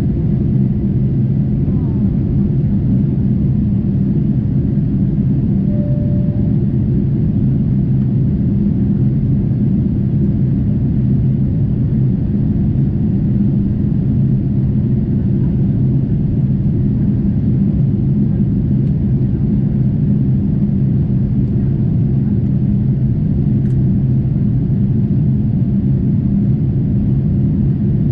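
Steady cabin noise aboard a Boeing 747-8 in flight: its four GEnx engines and the airflow make a constant low rumble with a faint steady hum.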